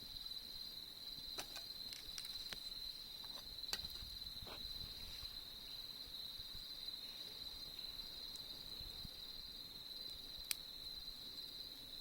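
Crickets singing in a steady, high, unbroken chorus, with a few sharp crackles from a wood campfire scattered through it; the loudest crackle comes near the end.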